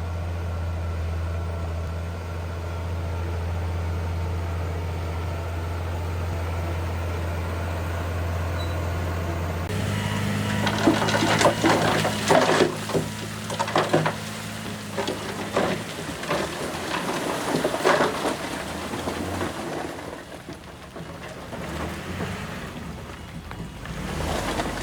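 A heavy diesel engine runs steadily. About ten seconds in, the sound changes abruptly, and loose stone clatters and tumbles in many sharp knocks for several seconds over a running engine, then dies down.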